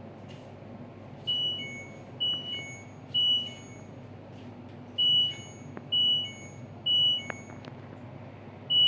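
LG front-load washing machine's control panel beeping in two-note falling chimes: three about a second apart, a pause, three more, and another near the end, over a steady low hum.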